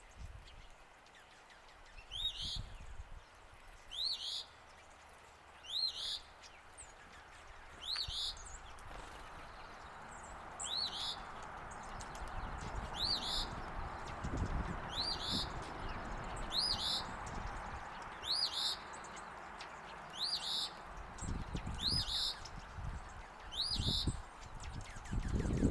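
A bird repeats a short, high call note over and over, about every two seconds, each note rising and falling in pitch. A steady background hiss sets in about a third of the way through.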